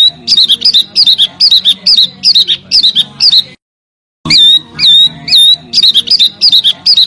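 Small songbird giving a quick series of sharp, hooked high-pitched call notes, about two to three a second. The phrase cuts off about three and a half seconds in and, after a half-second gap, the same phrase starts over as a looped masteran recording.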